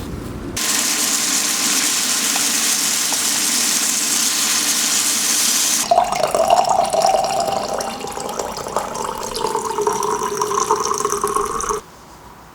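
Water running from a tap: a steady splashing hiss that changes about halfway through to a rougher sound with a ringing tone, then cuts off suddenly near the end.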